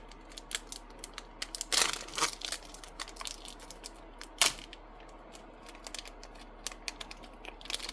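Trading-card booster pack wrapper being crinkled and torn open by hand: irregular crackles and rips, with louder bursts about two seconds in and about halfway through.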